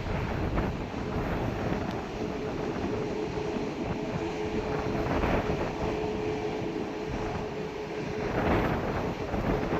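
Jet engines of an Airbus A340-600 running, a steady tone over a rushing rumble, with wind buffeting the microphone; the noise swells near the end.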